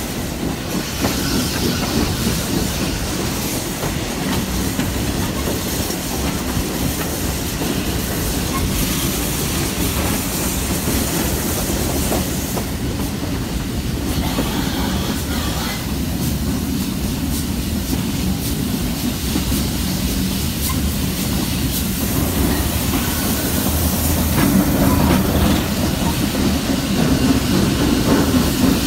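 Steam-hauled heritage passenger train running, heard from an open carriage window: a steady rumble with the clickety-clack of wheels over rail joints, getting louder near the end.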